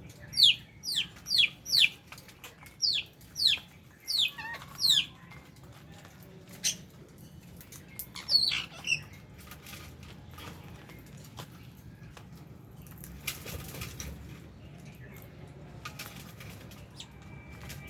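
Lovebirds in an aviary giving shrill, sharply falling chirps, repeated about twice a second for the first five seconds, then only a few scattered calls. About two-thirds of the way through there is a brief rustle of flapping wings.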